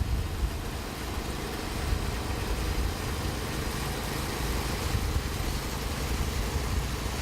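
Portable bandsaw sawmill's engine running steadily, a low drone with a broad hiss over it.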